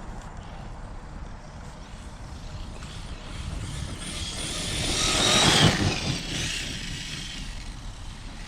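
Arrma Kraton 6S RC truck's brushless motor whining as the truck runs through thick wet grass, growing louder to a peak about five and a half seconds in as it passes close, then fading away.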